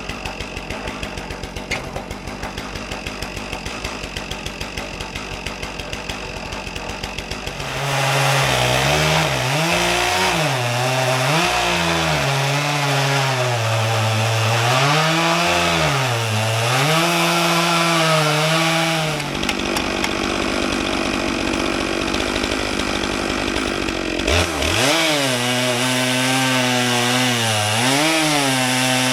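Stihl MS661 two-stroke chainsaw on a Logosol chainsaw mill, ripping a maple log. It putters rhythmically at idle, goes to full throttle about eight seconds in and runs through the cut with its pitch wavering under load. It eases off briefly around twenty seconds in, then picks up again.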